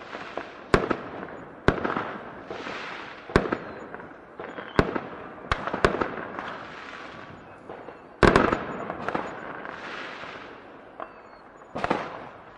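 Fireworks going off: about eight sharp bangs at uneven gaps of one to three seconds, each followed by a fading hiss. The loudest burst, a quick double bang, comes about eight seconds in.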